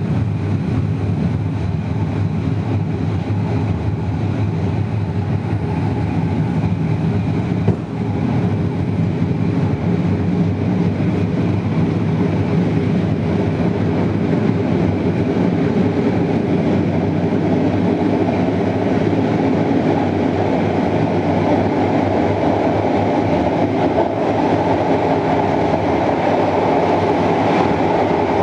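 Passenger train running along the track, heard from on board: a steady rumble of wheels on rails, with a single sharp knock about eight seconds in.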